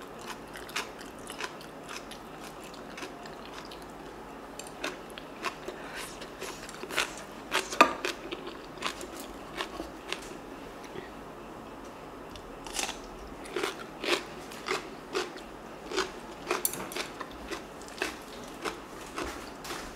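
Close-miked crunchy chewing of crisp oi-sobagi (stuffed cucumber kimchi) and bean-sprout rice, with irregular crunches that come about twice a second in the second half.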